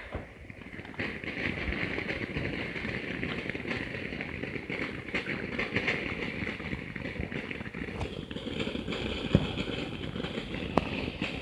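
A lit consumer firework burning at ground level with a steady hissing, crackling rush of sparks. Two sharper pops come near the end.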